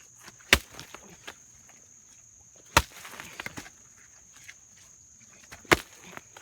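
Pickaxe striking into the ground three times, about every two and a half to three seconds, each blow followed by a short rattle of loosened dirt.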